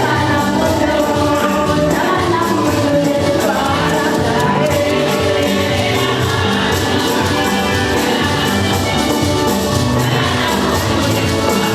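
A church choir or congregation singing a gospel song with musical accompaniment, many voices together, steady and loud.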